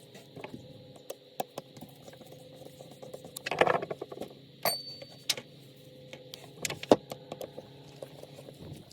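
Small metal parts and hand tools being handled: a run of light clicks and clinks, with a louder rattle about three and a half seconds in, over a faint steady hum.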